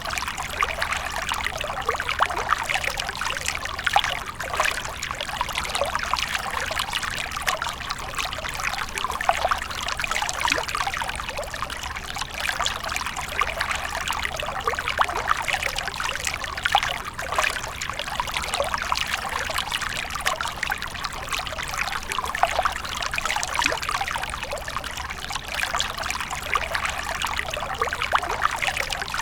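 Fountain water splashing and trickling continuously, with many small irregular splashes.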